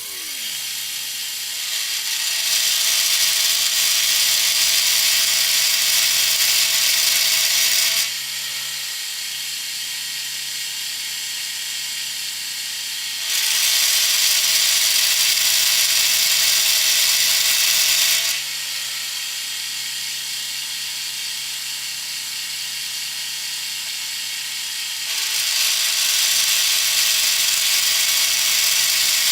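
Bridgeport milling machine running with a steady hum, broken by three stretches of much louder hissing as the milling cutter takes passes through the steel blocks, about a millimetre deep each time.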